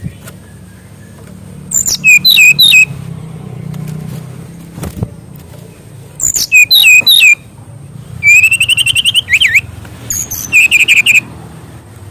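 SRDC (kancilan bakau) songbird singing in loud, separate phrases a few seconds apart. The phrases are quick runs of high whistled notes, one with a fast trill that ends in a swooping note, over a low steady hum.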